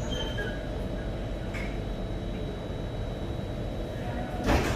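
ALSTOM Metropolis C751A metro train's steady low rumble with a thin, constant high tone. Near the end a sudden rush of louder noise sets in as the train sound swells.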